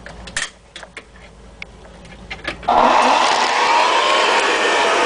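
A few clicks and knocks of handling, then the motor of a Hoover Model 61 upright vacuum cleaner switches on about two-thirds of the way in. It spins up quickly to a loud, steady whine.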